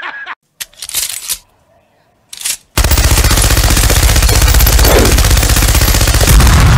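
A mounted machine gun firing one long, rapid, continuous burst, starting about three seconds in, after a man's brief laugh and two short noises.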